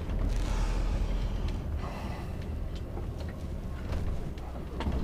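DAF XF106 lorry's six-cylinder diesel engine running at low revs, a steady low rumble heard from inside the cab, with a few faint clicks.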